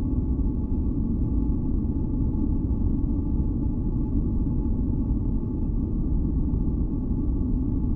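Steady, deep rumbling masking noise of the kind sold as white noise for sleep, heaviest in the low end, with a few faint held tones hovering above it. It does not change.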